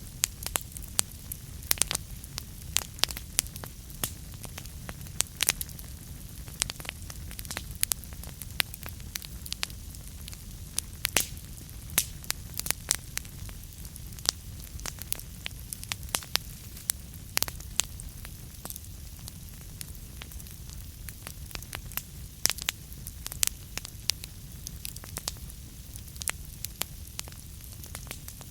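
Wood fire burning in a fireplace: irregular sharp snaps and pops from the burning logs, several a second, over a steady low rumble of the flames.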